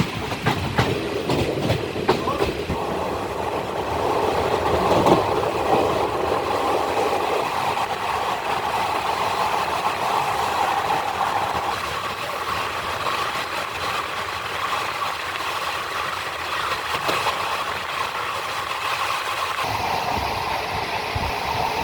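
Passenger train running along the track: a steady noise of wheels on the rails.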